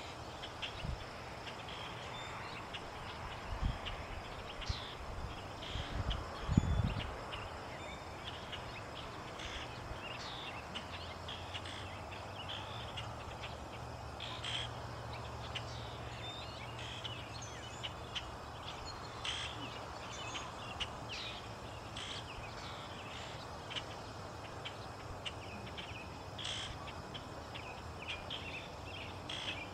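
Outdoor ambience with short, high bird calls every few seconds, and a few low rumbles about four and seven seconds in.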